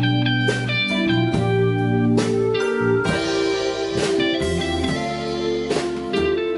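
Live instrumental music: an electric guitar plays a slow melody over sustained bass notes, with a few sharp hits.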